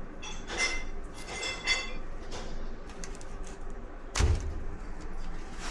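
Metal parts and tools clinking with a ringing tone a few times, then a single sharp knock about four seconds in, as a dryer is being taken apart.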